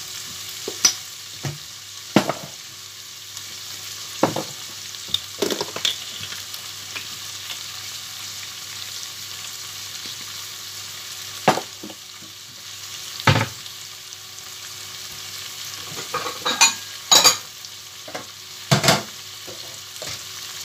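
Barbunya beans with tomato and pepper paste frying in a stainless steel pot: a steady sizzle, broken by scattered sharp crackles and clicks that bunch together near the end.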